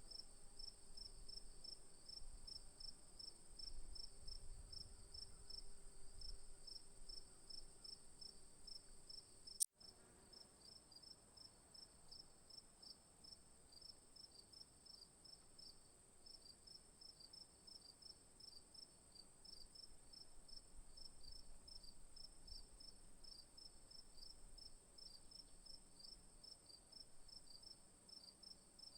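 Faint insects chirping: a rapid, even run of high chirps, about four a second, over a steady high hiss. A single sharp click with a momentary dropout comes about ten seconds in.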